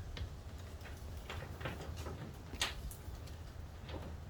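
A few faint scattered clicks and light knocks of hands working a plastic snap clip on a car seat cover, the sharpest about two and a half seconds in, over a low steady hum.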